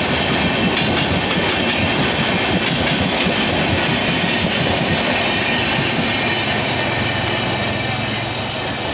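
Express train coaches passing at speed through a station without stopping, a steady loud rush of wheels on rails. The sound eases off near the end as the last coach goes by.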